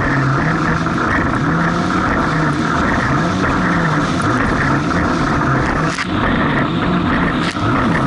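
Jet ski engine running under load, its pitch rising and falling again and again as the throttle changes over the waves, under a steady rush of wind and water.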